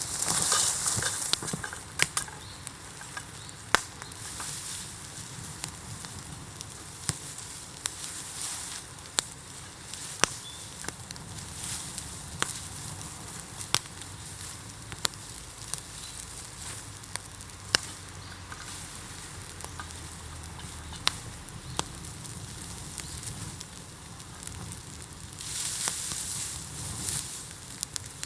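A heap of bamboo burning in a bonfire: a steady hiss with sharp pops and crackles scattered throughout. The hiss swells louder at the start and again near the end.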